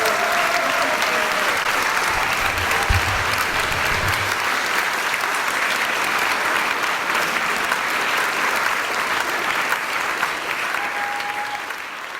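Concert audience applauding steadily, a dense patter of many hands clapping that fades near the end.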